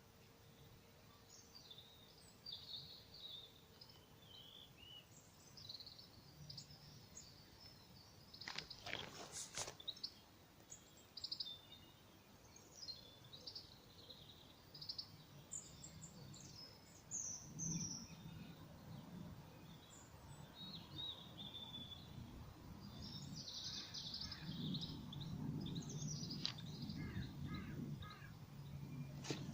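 Woodland birds chirping and calling, many short high notes scattered throughout, with one louder call about nine seconds in. A low rustling rumble builds under them in the second half.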